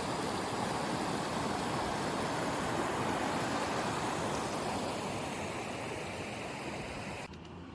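A steady rushing noise that fades slightly, then cuts off suddenly near the end.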